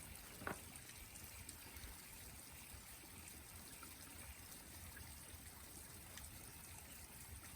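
Faint, steady running water of a mountain stream, with a single short knock about half a second in.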